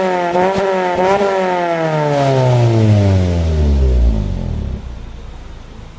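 Suzuki Swift Sport ZC31S's 1.6-litre four-cylinder engine through a custom 60 mm exhaust, revving in quick blips, then the exhaust note falls steadily in pitch over about three seconds and dies away to a low hum.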